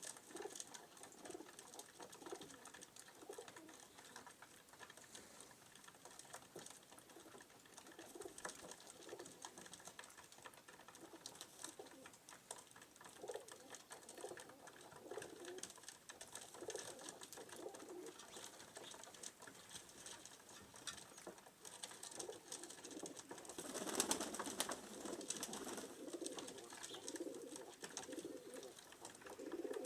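Pigeons cooing over and over, with many faint taps and clicks throughout and a louder rustling burst about two-thirds of the way through.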